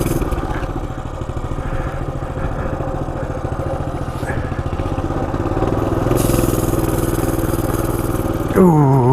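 Coleman CT200U EX mini bike's small single-cylinder four-stroke engine running steadily at low speed, its revs and level rising a little about halfway through.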